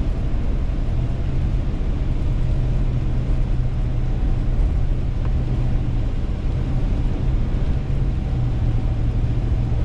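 Steady road and engine drone heard inside a moving car's cabin, with a low, even hum.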